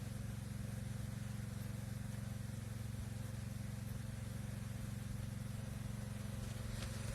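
Steady low mechanical hum of a running motor or engine, even and unchanging.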